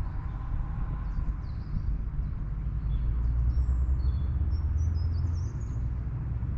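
Small birds chirping in short, high calls, most of them from about a second and a half in, over a steady low rumble.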